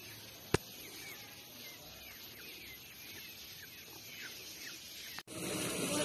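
Birds chirping, many short falling calls repeated over a steady outdoor background, with one sharp click about half a second in. Near the end the sound cuts suddenly to a louder steady hiss.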